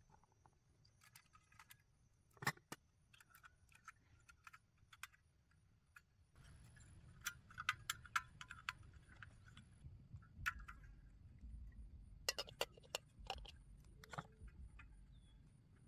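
Scattered light clicks and clinks of small hard objects being handled, in irregular clusters. A low steady rumble comes in about six seconds in.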